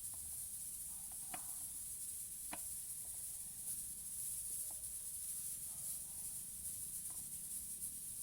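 Steady high hiss with two sharp clicks and a few faint, short squeaks from pet parrots.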